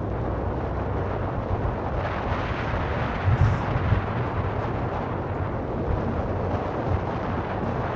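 Steady road and wind rumble from a moving car, with a few heavier low thumps about three and a half seconds in.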